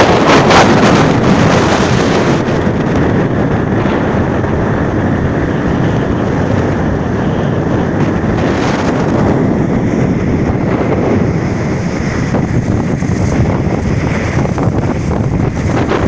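Strong wind buffeting the microphone: a loud, continuous rushing roar, strongest in the first second or so.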